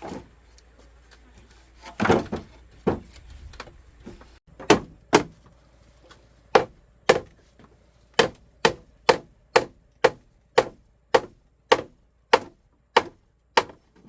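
Repeated blows of a hand tool on wood: a few heavier strikes first, then a steady run of about a dozen and a half sharp knocks, roughly two a second.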